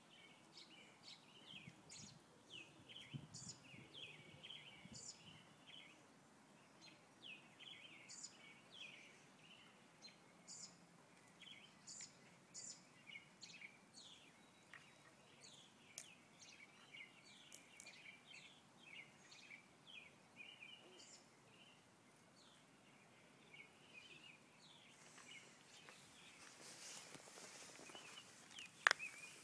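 Faint outdoor ambience with small birds chirping repeatedly in the background. A brief rustle builds near the end, followed by a single sharp click.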